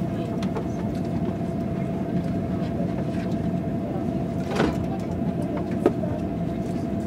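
KTX high-speed train running at speed, heard inside the passenger carriage: a steady rumble with a thin steady tone over it. Two brief knocks come about four and a half and six seconds in.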